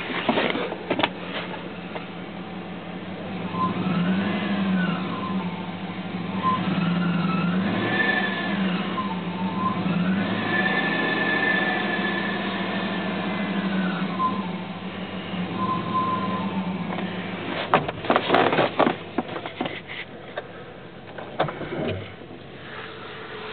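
2002 Dodge Durango engine running cold and being revved several times, with a whine that rises and falls in pitch with the revs. This is the odd noise the owner hears only while the engine is cold. A cluster of sharp knocks comes about three-quarters of the way through.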